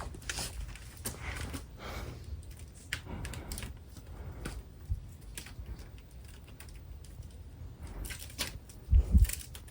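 TroposAir St. Augustine DC ceiling fan running on its highest speed, a steady low rumble of moving air, with scattered light clicks and ticks. Two louder thumps come about nine seconds in.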